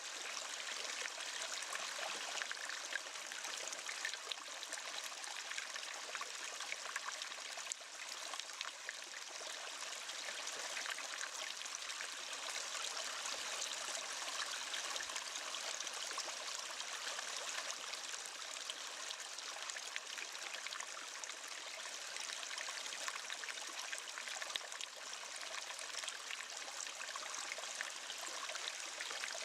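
Waterfall: water falling and splashing in a steady, even hiss with fine splashes throughout and little deep rumble.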